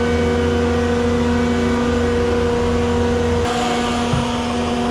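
Heavy-equipment engine running steadily at a constant pitch. About three and a half seconds in its note changes: the low rumble drops away and a higher tone and more hiss come in.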